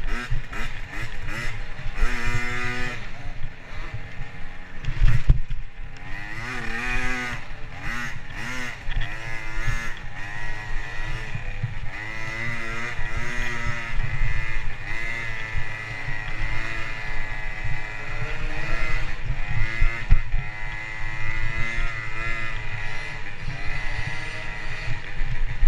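Motocross bike engine revving hard, its pitch repeatedly climbing and then dropping as the throttle is opened and closed and gears are changed, over a rough low rumble.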